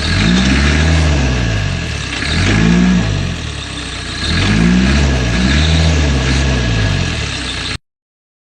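Land Rover engine revved up and down about four times as it tries to pull out of sludgy mud where it is stuck. The sound cuts off suddenly near the end.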